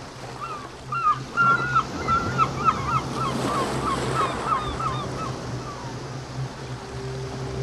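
A bird calls in a quick run of honking notes that slow and fade out about six seconds in, over a steady wash of surf and a low hum; a faint steady tone comes in near the end.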